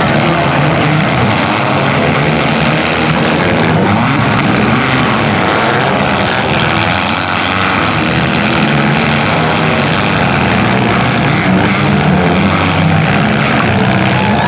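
Several demolition derby compact cars' engines running and revving together, their pitch rising and falling over a steady, loud din.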